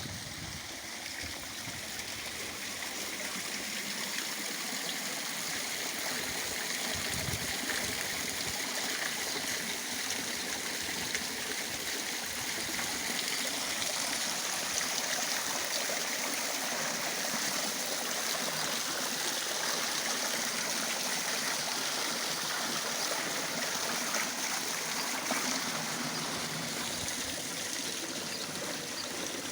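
Water running steadily down a man-made stone garden waterfall into a pond, growing a little louder over the first few seconds.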